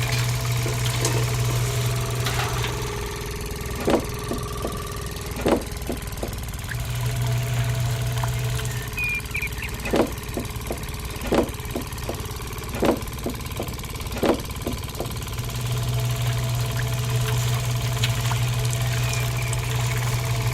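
A small motor running with a steady low hum that drops away twice. In the lulls come a series of sharp clacks, roughly one every second and a half, with lighter ticks between.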